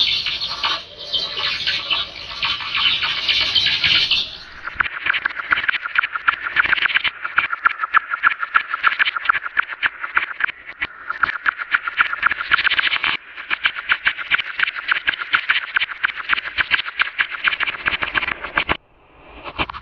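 Creature sound effect for a giant monster bat: a harsh, distorted screech, then, from about four seconds in, a long, fast, rattling train of clicks and chirps that cuts off near the end.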